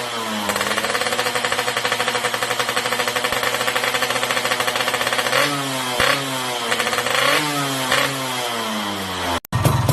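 Yamaha RX-King 135 cc two-stroke single through an aftermarket Boban 'Bobokan' expansion-chamber exhaust, revved with repeated throttle blips, the revs falling back after each. The sound breaks off suddenly near the end.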